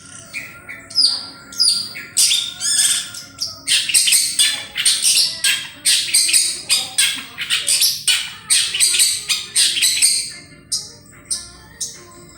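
Long-tailed shrike (cendet) singing vigorously: a rapid run of short, harsh chattering and squawky notes. The notes come sparsely in the first few seconds, then pour out almost without a break.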